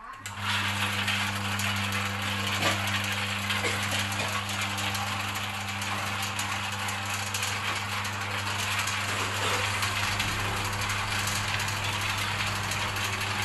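Seasoning mixer machine for chips and snacks switched on at the start and running steadily: a constant electric-motor hum under a continuous rattling noise.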